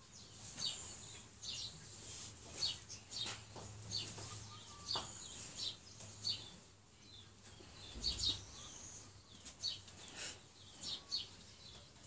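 Small birds chirping, short high chirps in quick irregular runs, with a single low thud about eight seconds in.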